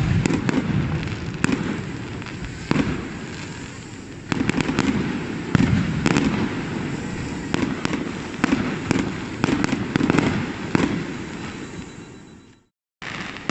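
Aerial fireworks going off: a dense crackle of pops with louder bangs every second or so. It fades near the end and cuts out briefly.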